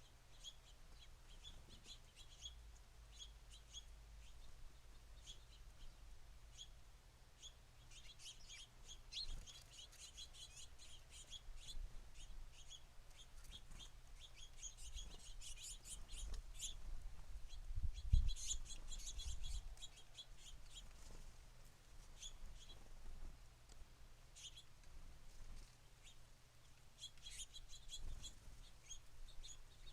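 Small songbirds at a backyard feeder chirping, with many quick short chirps coming in busy bursts, and a brief low thump about midway.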